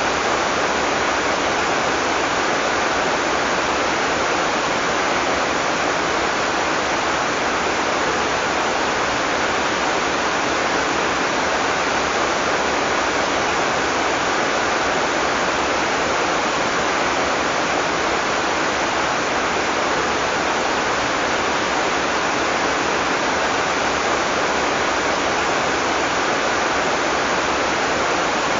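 Heavy tropical rain falling steadily, a dense, even hiss with no thunder and no separate drops standing out.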